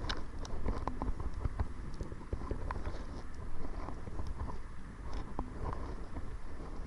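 Kayak on choppy water: irregular small splashes and knocks of water and paddle against the hull, over a steady rumble of wind on the microphone.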